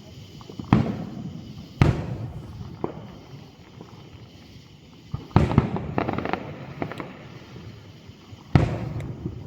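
Aerial fireworks shells bursting overhead. There are sharp booms about a second in and near two seconds, a quick cluster around five and a half to six seconds, and one more near the end. Each boom trails off in a rolling echo, with a few smaller pops in between.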